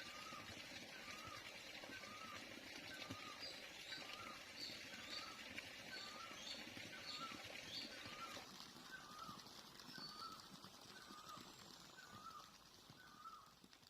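Faint birdsong: a short call repeated steadily about twice a second, with higher chirps joining for a few seconds in the middle, over a soft hiss that fades toward the end.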